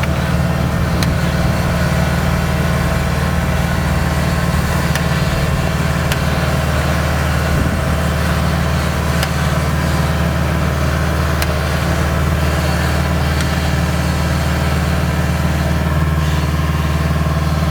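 Diesel engine of a Kubota DC70 rice combine harvester running steadily, with a few faint ticks over it.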